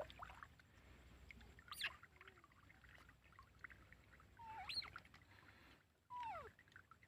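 Baby monkey giving three short high squeaks a couple of seconds apart: two rising, and the last falling in pitch. The squeaks stand over near silence.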